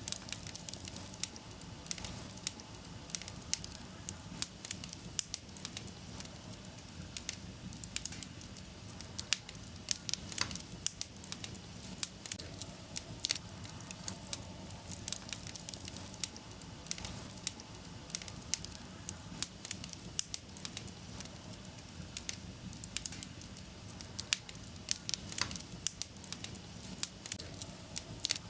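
Wood fire burning in a fireplace, a steady low rush with frequent irregular crackles and pops.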